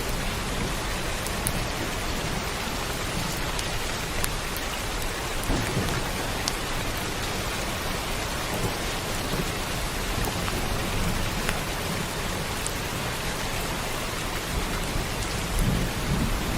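Steady heavy rain with scattered single drops, and low rolling thunder swelling about five seconds in and again near the end.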